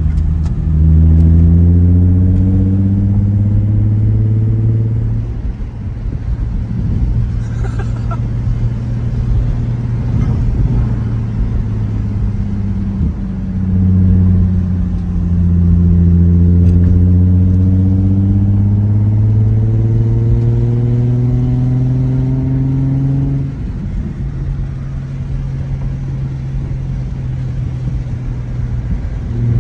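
Nissan 350Z Nismo's 3.5-litre V6 through a stock Nismo exhaust with a Tomei single-exit axle-back, pulling under acceleration. The note rises for about four seconds, falls back and holds steady, rises again in a longer pull of about nine seconds, then drops and settles into a steady run for the last several seconds.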